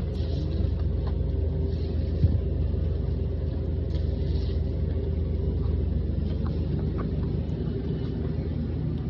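Steady low rumble of a running vehicle engine, with one short knock a little over two seconds in.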